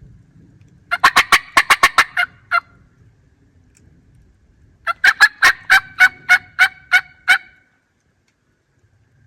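Two runs of loud turkey calls, each a quick string of sharp notes: the first starts about a second in at roughly eight notes a second, and the second starts about five seconds in, slower at about five notes a second. Between the runs there is only a faint low rumble.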